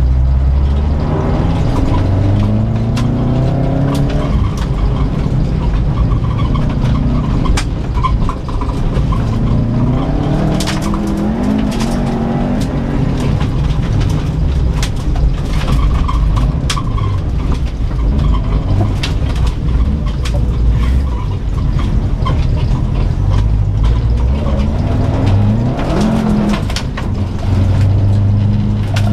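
Subaru WRX STI's turbocharged flat-four engine, heard from inside the cabin, revving up and dropping back again and again through the gears while driven hard on a muddy dirt course. Frequent sharp ticks of gravel and mud strike the car's body.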